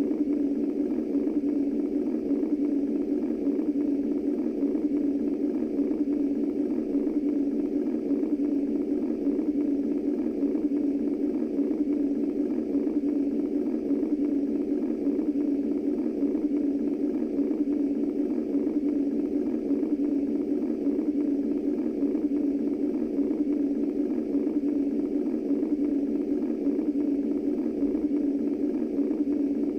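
Womb-style white noise: a steady, deep whoosh with its energy low down and little treble, unchanging, with no heartbeat or other rhythm.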